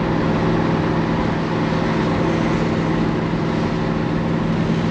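Ford Fairlane car driving at speed: a steady engine hum under continuous road and wind noise.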